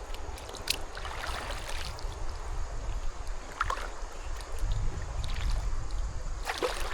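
Kayak on a creek: a few paddle splashes over running water, with a louder rush of splashing water starting near the end.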